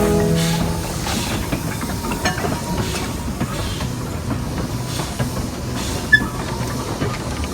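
Steam train running: a steady hiss of steam with faint rail clatter. A held tone dies away within the first second.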